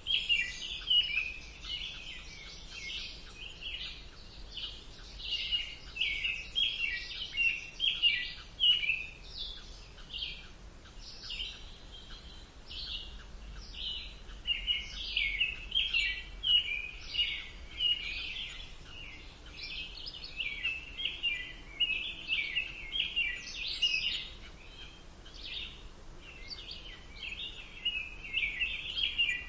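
Several songbirds chirping and singing at once, a dense run of short high notes with brief lulls, over a faint steady background hum.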